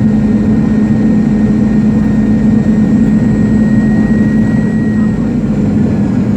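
Jet airliner's engines heard from inside the cabin during landing: a loud, steady rumble with a low hum. A thin high whine fades out about five seconds in.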